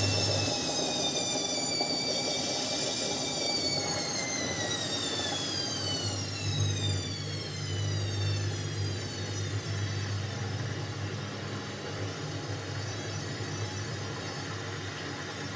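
Indesit 71252 washing machine's drum motor whining as the drum slows, the whine falling steadily in pitch over a low hum, as a spin winds down.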